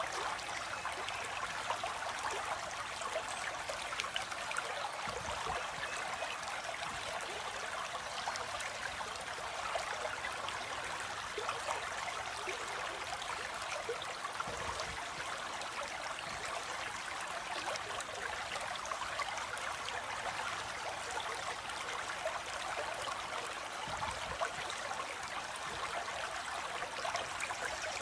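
Flowing water trickling and splashing steadily, like a small stream running over rocks.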